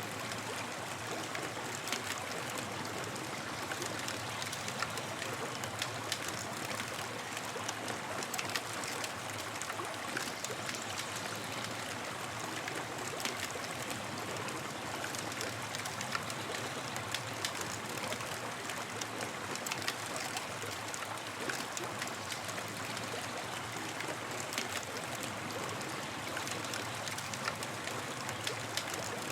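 Campfire burning with a steady hiss and frequent small crackles and pops of burning wood.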